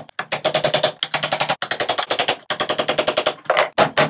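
Hammer striking a wood chisel into pallet wood in a fast, rattling run of sharp knocks, about ten a second, in bursts broken by short pauses.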